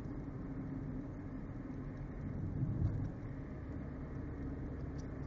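Steady low rumble of a moving car's road and engine noise heard from inside the cabin, swelling briefly near the middle.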